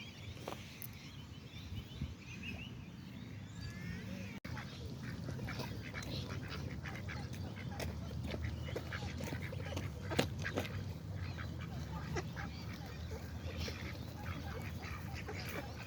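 A group of ducks quacking in a wetland, many short calls overlapping. Softer, scattered bird calls come before a sudden break about four seconds in.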